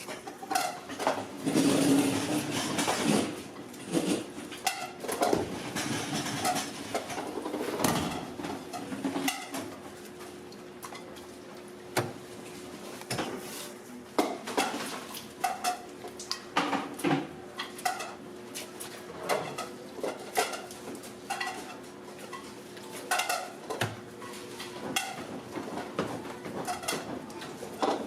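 Kitchen clatter during food prep: metal utensils, trays and dishes clinking and knocking irregularly, over a steady faint hum.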